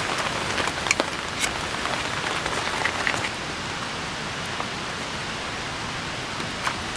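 Steady heavy rain falling, with scattered single drops hitting close by, a few of them in the first three seconds.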